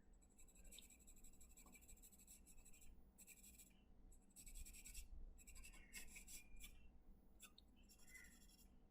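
Faint scratching of shading strokes on sketch paper, several stop-start runs of back-and-forth strokes as an area of the drawing is filled in with tone.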